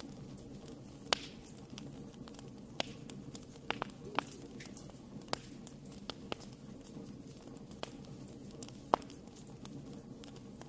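Wood fire burning in a fireplace: a steady low rumble of flames with irregular sharp crackles and pops, the loudest about a second in and near the end.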